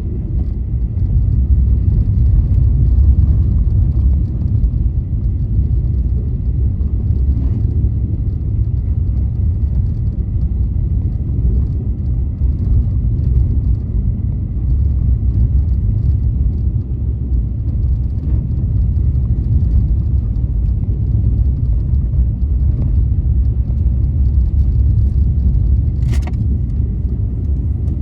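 Steady low rumble of a car driving on snowy roads: tyre and road noise with engine hum and a faint steady high whine underneath. One short sharp click near the end.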